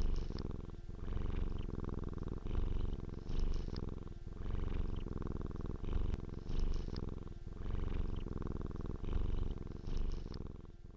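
A cat purring close to the microphone: a steady low rumble that swells and dips with each breath, about every second and a half.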